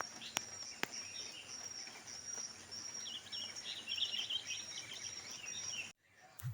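Morning outdoor ambience of birds twittering, over a high, short chirp repeated about twice a second, with two sharp clicks in the first second. The ambience cuts off suddenly near the end.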